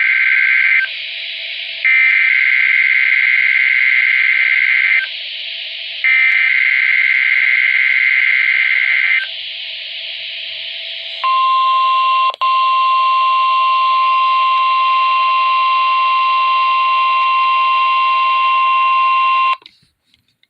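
NOAA Weather Radio alert-tone test: the tail of one screeching SAME digital header burst, then two more about a second apart with radio hiss in the gaps. These are followed by the steady 1050 Hz warning alarm tone, held for about eight seconds and cut off abruptly near the end. The tones signal a weekly test of the station's alarm device.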